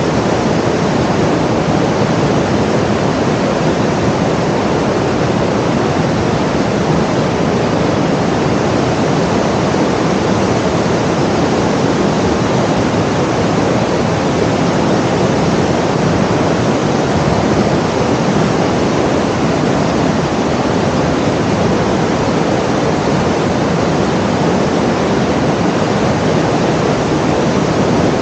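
Steady, even rushing noise that does not change at all.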